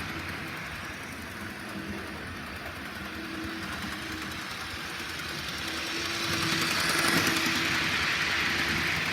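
Train rolling past, a steady rumble and rail noise that grows louder about six to seven seconds in.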